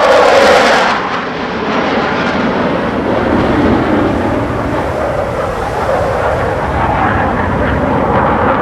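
Jet noise from Thunderbirds F-16 Fighting Falcons passing overhead. It is loudest in about the first second, with a sharp blast, then settles to a steady rushing rumble.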